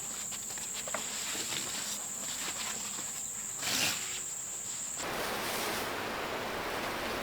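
A steady, high insect drone with scattered small clicks and a brief rustle. About five seconds in the drone stops abruptly and a dense, steady hiss takes over.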